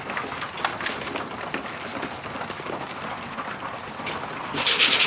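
Pigeons coming into the loft: scattered light clicks and flutters, then a louder burst of wing flapping about four and a half seconds in.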